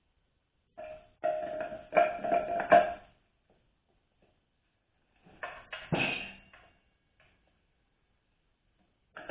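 Metal transmission parts clanking and ringing as they are handled and set into a 4L60E case: two bouts of knocks with a ringing metallic tone, about a second in and again around six seconds in.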